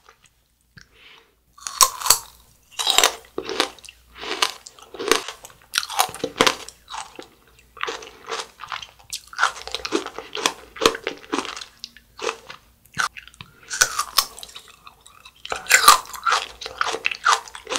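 Close-up crunching and chewing of a bite of aloe tanghulu, its hard sugar coating cracking. A loud first bite about two seconds in, then a steady run of crisp crunches, about one or two a second.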